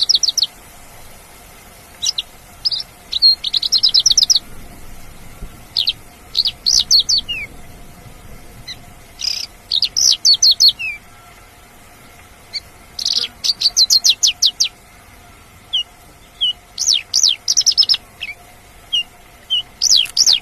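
Javan bush lark (branjangan) singing: short, high phrases of fast repeated notes, coming every second or two.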